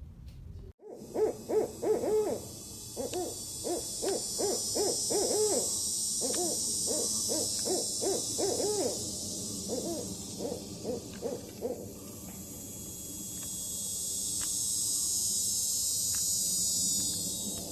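An owl hooting in quick runs of short, arched hoots for about ten seconds, with the hoots coming a few a second and stopping about twelve seconds in. A steady high hiss runs underneath and grows louder near the end.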